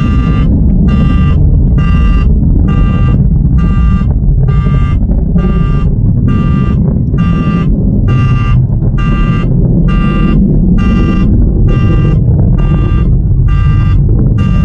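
Heavy low rumble of the Atlas V rocket climbing away after liftoff. Over it an electronic alarm beeps steadily, about one and a half times a second.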